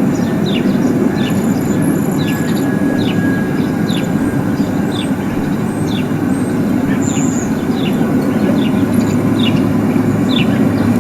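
A steady, unbroken low rumbling drone of the kind passed around as a mysterious 'strange sound' from the sky, with a bird chirping over it in short falling chirps about one or two a second.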